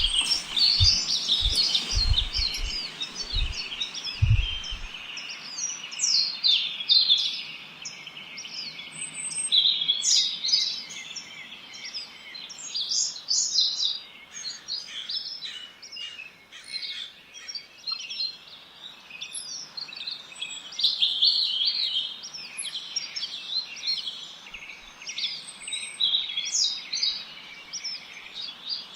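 Many small songbirds chirping and singing at once, a dense chorus of short, high calls and trills that overlap throughout. A few low thumps sound in the first five seconds.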